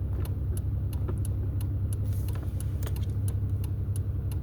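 Car engine idling, a steady low rumble inside the cabin, with a regular light ticking about three times a second.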